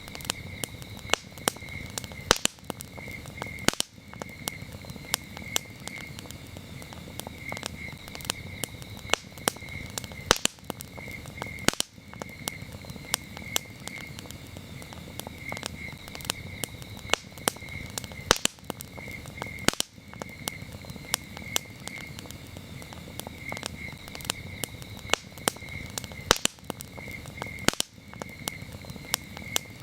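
Campfire crackling with frequent sharp, irregular pops over a low rumble of the flames, while crickets chirp steadily in a high pulsing trill.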